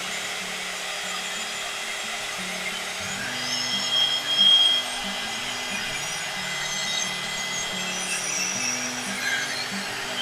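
Heat gun blowing steadily with a constant whine, drying fresh rust-effect paint. Background music with slow low notes plays underneath.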